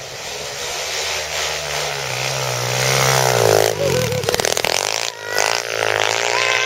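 Pit bike engine revving as the bike rides up, growing louder over the first few seconds with the pitch climbing. The engine drops off briefly about four seconds in, then picks up and runs on.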